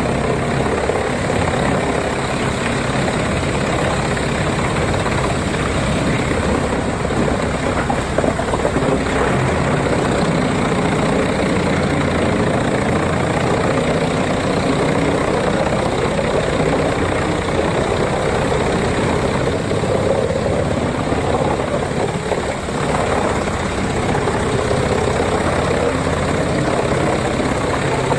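Heavy engine of a crane-fed forestry wood chipper running steadily under load as it chips wood.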